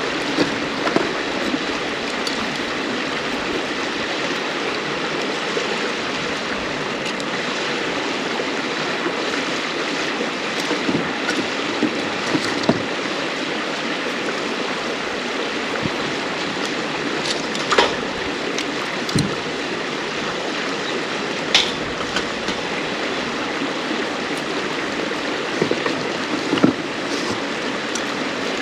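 A river flowing steadily over stones, with a wood campfire crackling over it: a handful of sharp pops from the burning firewood, scattered and irregular.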